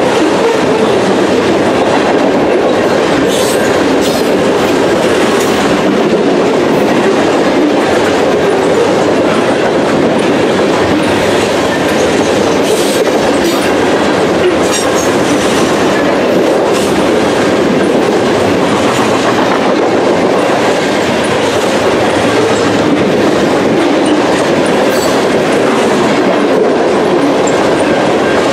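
Covered grain hopper cars of a long freight train rolling past close by: a steady loud rumble of steel wheels on rail, with scattered clicks and clanks as the wheels pass over the track.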